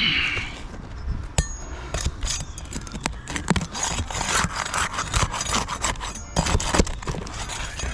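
Roofing shingles being pried and scraped loose: a run of irregular rough scraping and rubbing strokes with a few sharp knocks.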